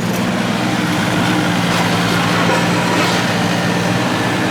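A machine running with a steady, even low hum.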